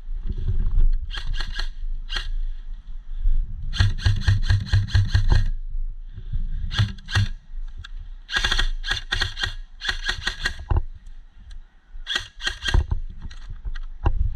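Airsoft gun firing in several bursts of quick sharp shots, about six a second, with short pauses between the bursts, over low handling rumble.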